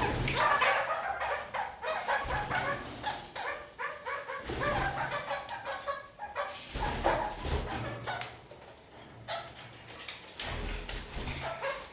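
Red-crowned kakariki parakeets chattering and calling in quick, broken chirps, busy for most of the time with a quieter lull after about eight seconds.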